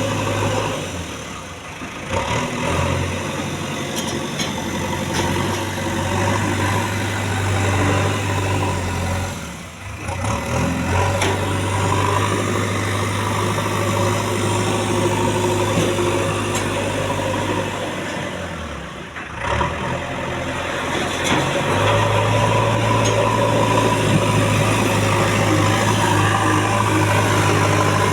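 JCB 3DX backhoe loader's diesel engine running steadily while working, its sound dipping and changing briefly three times, about two, ten and nineteen seconds in, then picking up again.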